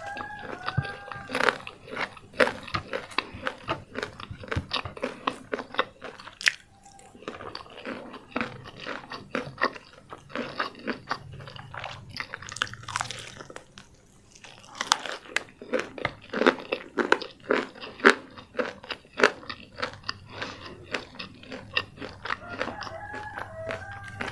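Close-miked chewing of nasi lemak with crispy fried chicken eaten by hand: a dense run of crisp crunches and wet mouth sounds, with a couple of short lulls. A brief pitched hum-like sound comes right at the start and again near the end.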